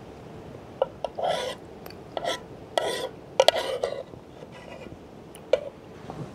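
Metal spoon scraping and clinking in a mess tin: a few short scrapes with sharp clinks, then a single clink near the end.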